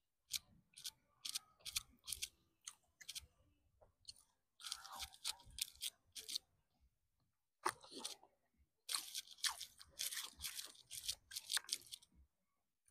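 A person chewing a crispy fried chicken burger: runs of crunchy bites and chewing, broken by a couple of short pauses, stopping a little before the end.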